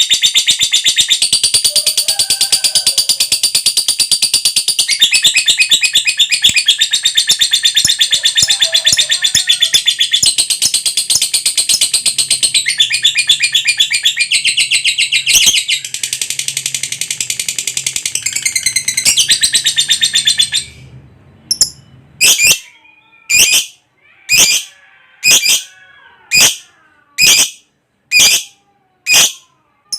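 Lovebird giving its long 'ngekek' song: a fast, unbroken, high-pitched chattering trill for about twenty seconds. It then breaks off into single sharp calls about once a second.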